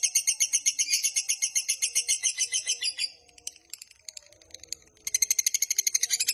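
Lovebird's long 'ngekek' chatter: a rapid string of shrill notes, about ten a second, that breaks off about three seconds in and starts again about two seconds later.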